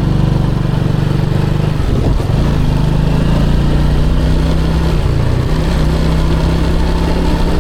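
Motorcycle engine running as it is ridden, heard from the rider's position. The engine note breaks and changes about two seconds in, then runs steady again.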